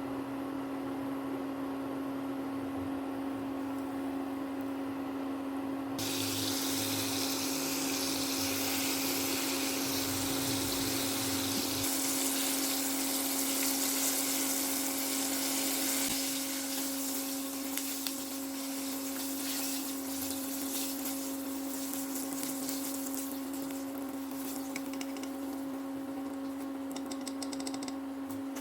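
Water running from a tap into a sink, flowing harder from about six seconds in, over a steady low hum.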